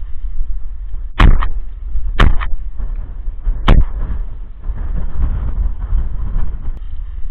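Three shotgun shots, the first two a second apart and the third a second and a half later, each followed by a quick echo, over a steady low rumble.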